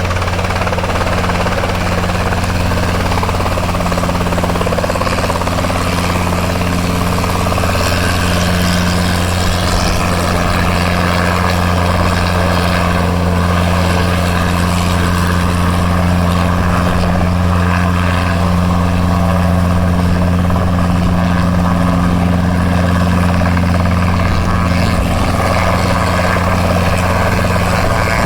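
Robinson R22 helicopter's four-cylinder piston engine and rotors running at a steady, loud drone, with a constant low hum under it.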